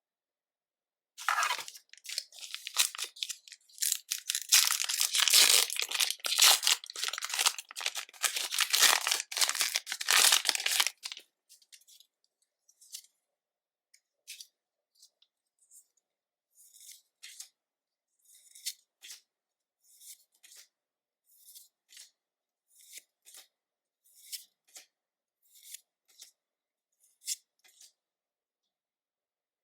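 Foil booster pack wrapper crinkling and tearing for about ten seconds. Then come soft, light ticks a little more than once a second as trading cards are handled one by one.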